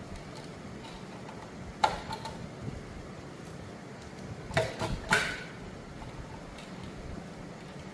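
Handling of a plastic humidifier: a sharp click about two seconds in, then a short cluster of clicks and knocks around five seconds in, over a steady low hum.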